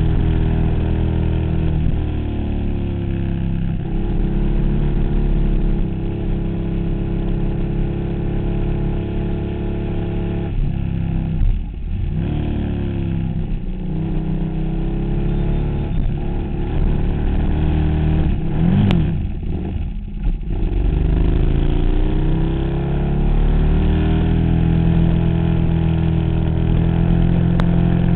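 2008 KTM Super Duke's V-twin engine running hard under way, its revs rising and falling with the throttle through a series of bends, with brief drops in revs about twelve and twenty seconds in.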